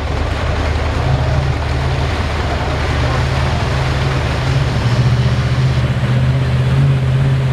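Big Dodge mud truck's engine running hard and loud, a steady drone whose pitch edges up and gets a little louder about five seconds in.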